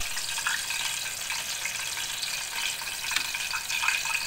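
Mushroom and vegetable stir-fry sizzling steadily in a wok of thin sauce while a metal spatula stirs through it.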